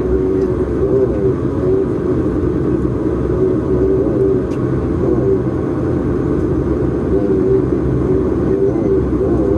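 Bombardier Dash 8-Q400's Pratt & Whitney PW150A turboprop engines running at idle, heard from the cabin: a steady drone with a wavering, warbling note. The uploader found the right engine's idle sound strange and unfamiliar for the Q400.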